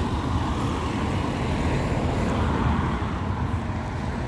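Steady road traffic noise, a continuous low rumble of cars going by.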